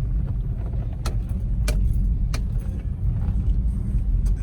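Pickup truck running at low speed, heard from inside the cab as a steady low rumble. Three sharp clicks come in quick succession about a second in, and one more near the end.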